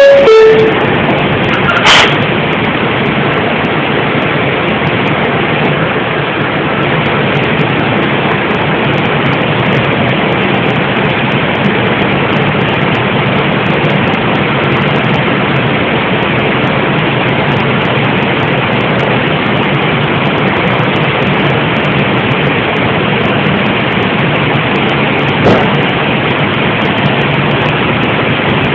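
Two-tone descending door chime of an R142 subway car, a sharp knock about two seconds in, then the steady running rumble of the train heard from inside the car.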